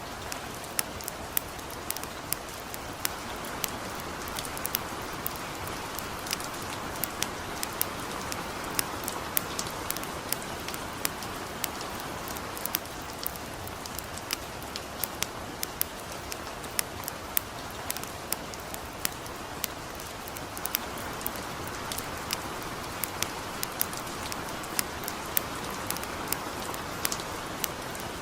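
Light rain falling steadily alongside a crackling campfire: an even hiss under frequent sharp pops and crackles, several each second.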